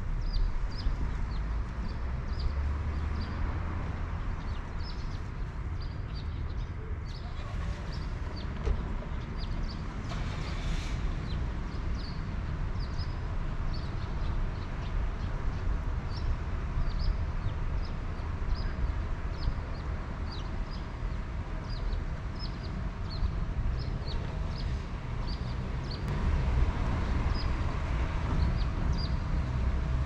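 A small bird chirps repeatedly, short high downward notes about once or twice a second, over a steady low rumble. The rumble grows louder near the end, with a brief hiss about ten seconds in.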